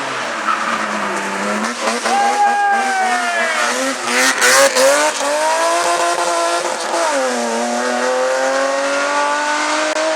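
Hillclimb race car's engine revving hard, its pitch dropping and climbing again several times through gear changes, with a short harsh burst of noise about four seconds in.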